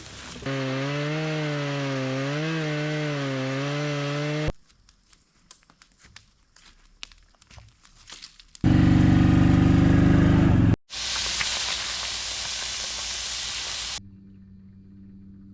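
Chainsaw engine running in several short bursts that start and stop abruptly, its pitch wavering as it works. Between bursts come scattered clicks and knocks, and near the end a rushing noise.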